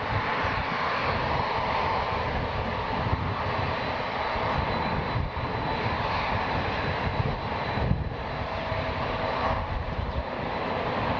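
Jet engines of a Boeing 767-300ER airliner running with a steady, continuous roar.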